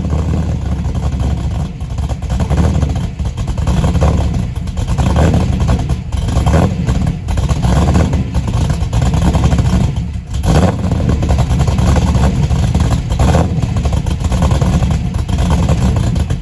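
LS1 5.7-litre V8 of a fourth-generation Camaro Z28 fitted with a BTR stage 3 camshaft, running after a cold start with the lumpy idle "chop" of the aggressive cam. The engine note swells and dips several times.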